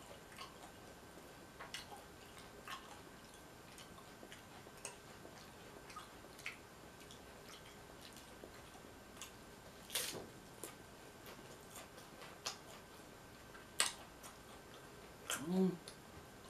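Close-up chewing of nachos: scattered crunches and mouth clicks, the loudest about ten seconds in and again near fourteen seconds. A brief hummed sound near the end.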